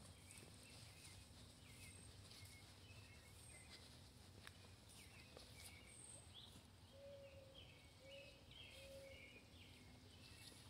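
Quiet outdoor ambience with faint bird chirps repeating throughout, and three short lower calls about two-thirds of the way in.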